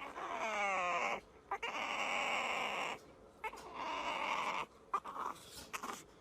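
A dog vocalizing in a series of calls: the first is a pitched whine that falls in pitch, and four shorter, rougher, breathy calls follow with short gaps between them.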